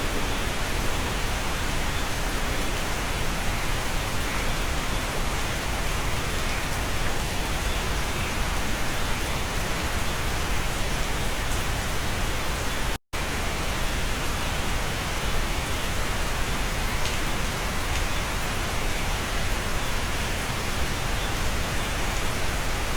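Rain heard from inside a cabin, a steady, even hiss with no single drops standing out. About halfway through, the sound cuts out completely for a split second and then resumes unchanged.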